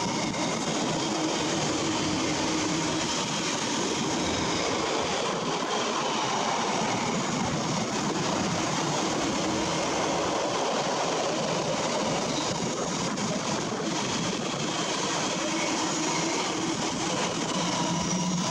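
Container wagons of a Freightliner intermodal freight train rolling past on the rails, a steady, unbroken rush of wheel-on-rail noise.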